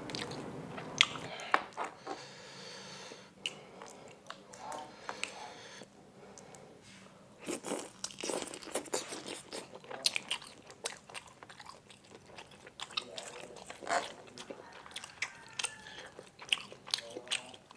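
Close-up eating sounds of bakso (Indonesian meatballs) in spicy sauce: wet chewing and biting, with irregular sharp clicks of a metal fork and knife against the pan as pieces are cut.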